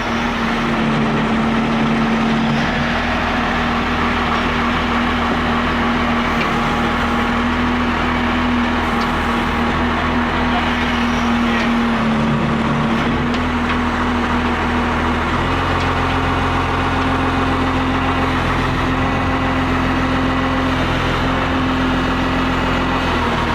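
Large John Deere wheel loader's diesel engine running steadily, its note stepping up slightly about two-thirds of the way through.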